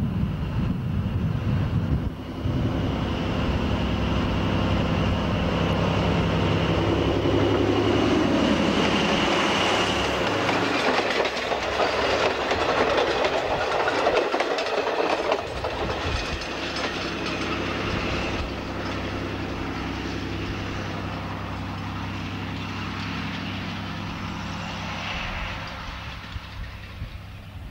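Metre-gauge diesel train passing close by: the locomotive's engine drone swells to its loudest as it goes past, then the coaches' wheels clatter along the rails and the sound slowly fades. A thin high whine runs through the first part.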